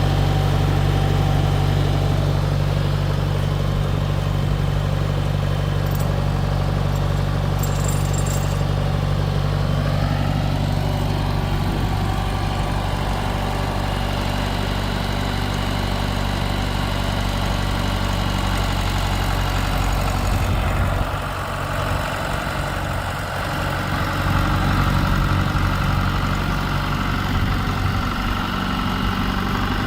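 1968 John Deere tractor engine running steadily at idle, its note shifting about two-thirds of the way through.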